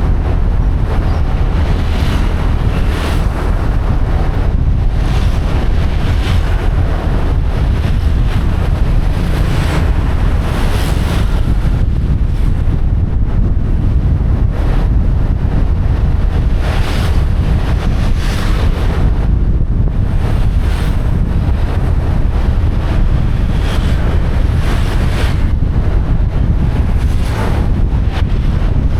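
Wind buffeting the microphone of a moving motorcycle: a steady low rumble of wind and road noise with the motorcycle's engine underneath, swelling briefly now and then.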